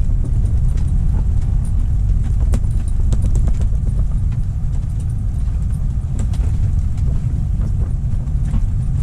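Strong wind buffeting the microphone: a loud, steady low rumble, with scattered light clicks and ticks over it.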